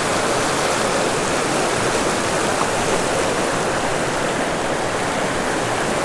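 Creek water rushing steadily and evenly, with no breaks.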